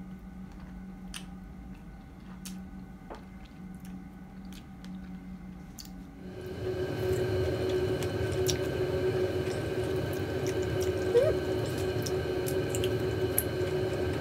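Fresh strawberries being chewed close to the microphone: wet squishing with soft mouth clicks. About six seconds in, a louder steady hum with a hiss starts and continues under the chewing.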